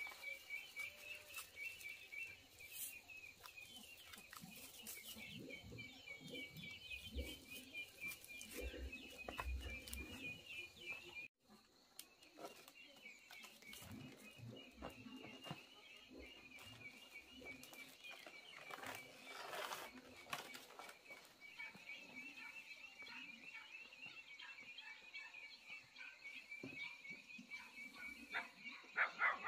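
Birds chirping continuously in rapid, high-pitched notes, with soft knocks and rustling underneath. The sound drops out for a moment about eleven seconds in, and a short burst of rustling comes near the twenty-second mark.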